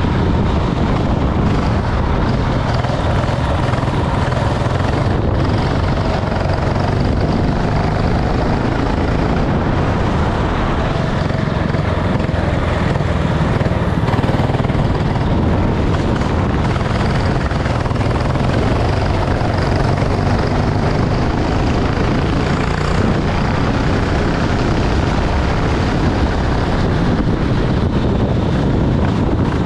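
Racing kart engine running, loud and steady, under a dense rushing noise.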